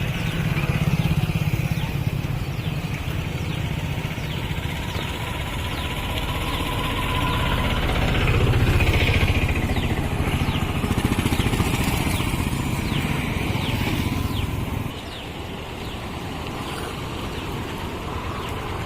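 Motorcycle engine running steadily while riding. The sound swells about eight seconds in and drops to a lower, steadier level about fifteen seconds in.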